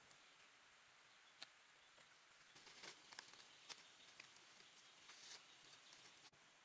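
Near silence: a faint steady hiss with a few soft clicks and brief rustles.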